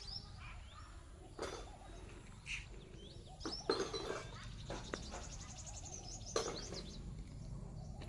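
Birds calling outdoors: a few short, sharp chirps and calls a second or more apart over a low steady background hum.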